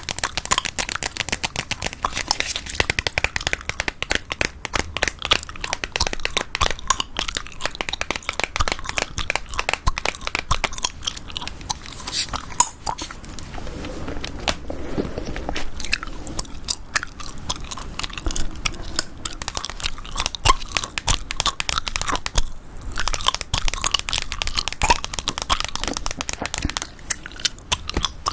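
Chewing gum close to the microphone: a steady stream of rapid clicks and smacks from the mouth.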